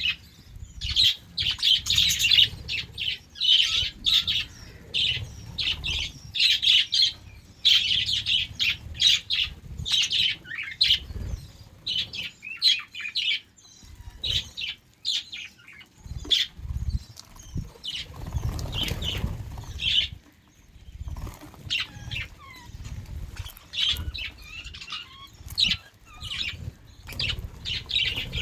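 A flock of budgerigars chirping and chattering in rapid, overlapping bursts, with low bumping sounds underneath.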